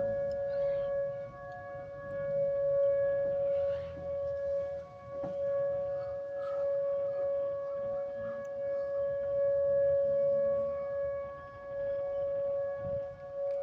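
Tornado warning siren sounding during a test, holding a steady chord of several tones without rising or falling.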